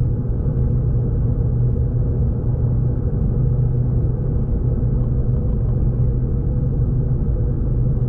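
V/Line passenger train running: a steady low rumble with a constant low hum under it.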